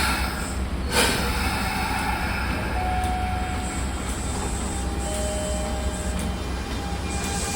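Kintetsu 1240-series electric train running at a station platform: a steady low rumble with a short knock about a second in, and faint thin whines coming and going over it.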